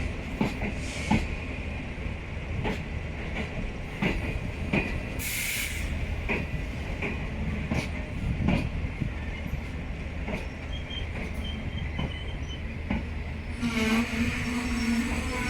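Passenger train coaches rolling through the station, with wheels clicking irregularly over rail joints over a steady rumble. A short hiss comes about five seconds in, and a steady humming tone sets in near the end.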